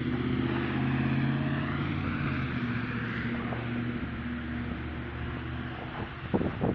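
An engine running at a steady pitch, with a noisy hiss above it. The sound is loudest early on and fades away after about five seconds.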